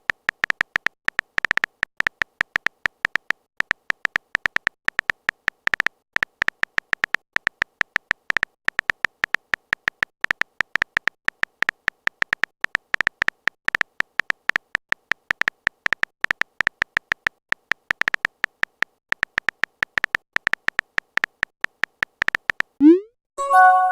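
Typing sound effect for a chat message: rapid, irregular short beeps at one high pitch, several a second. Near the end, a quick rising chirp and a short chime.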